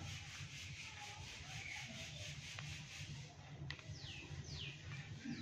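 Faint steady low hum of background noise; from about three and a half seconds in, a bird calls three times, each a quick falling chirp.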